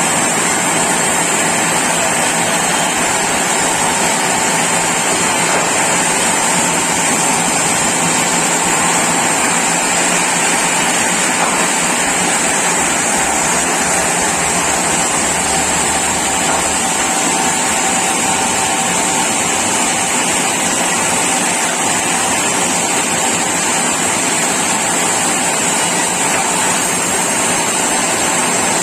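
Sawmill saw running steadily while cutting a mahogany log: a continuous noisy hiss and whine with a bright high band, without breaks.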